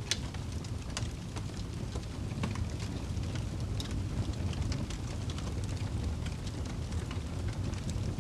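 Wood fire crackling and popping: irregular sharp snaps, one near the start and others every second or so, over a steady low rumble.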